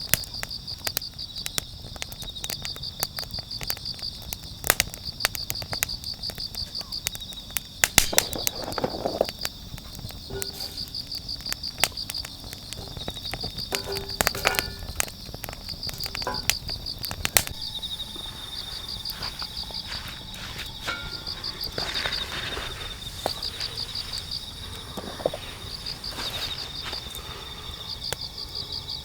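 Crickets chirping in repeated high-pitched pulsed trills, over frequent sharp crackles and pops from the wood campfire.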